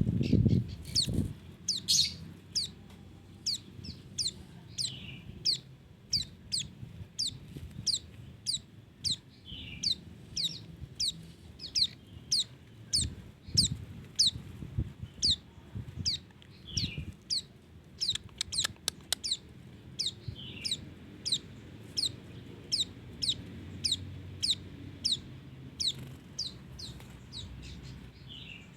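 A bird calling over and over with sharp, high chirps that each drop steeply in pitch, about one or two a second, with a brief rapid rattle of clicks about eighteen seconds in.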